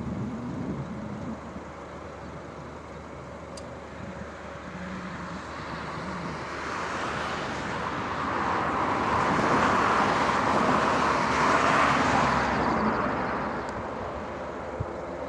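An aircraft passing overhead: a steady rushing engine noise builds over several seconds, peaks near the middle, then fades away.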